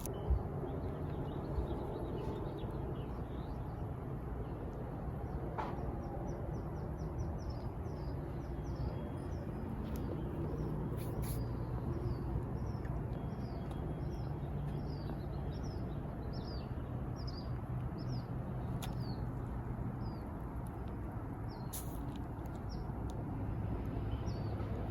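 A small bird chirping over and over: a quick run of short chirps about six seconds in, then roughly one chirp a second, over a steady low background rumble. A few faint clicks are scattered through it.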